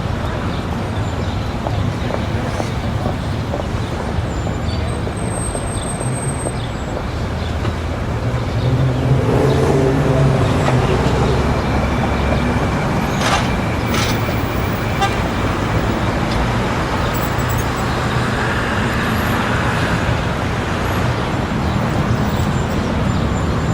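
City street ambience: steady road traffic with engines running, and one vehicle passing louder around the middle, over a background of people in the street. A short horn-like tone sounds about halfway through, along with a couple of sharp clicks.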